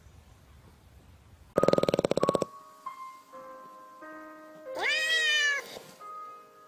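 A cat. About a second and a half in it makes a loud, rapid rattling sound, and about five seconds in it gives one long meow that rises and falls in pitch. Sustained music notes sound between the two.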